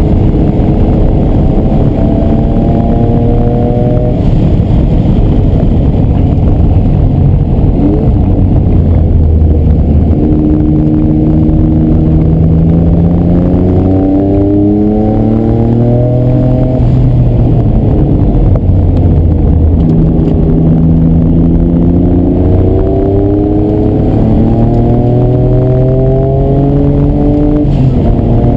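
Noble M500's engine heard from inside the cabin under hard acceleration, its pitch climbing and then dropping back again and again as it shifts gears. Heavy road and wind rumble runs underneath.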